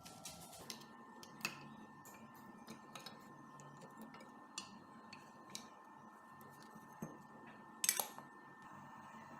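Sparse light clicks and taps, a few per second at most, with a louder cluster of sharp knocks about eight seconds in, over a faint steady hum.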